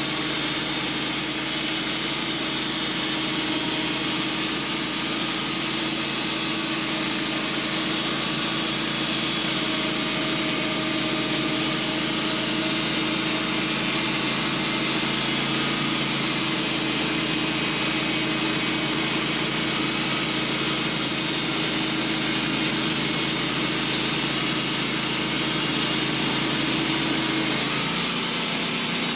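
Band sawmill running steadily as its old blade makes the first flattening cut through a hard hickory log: a steady engine note under a dense sawing hiss. The engine note changes shortly before the end.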